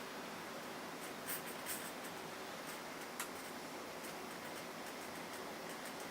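Steady background hiss with a few short, faint clicks and scratches, the loudest about a second and a half in and another about three seconds in.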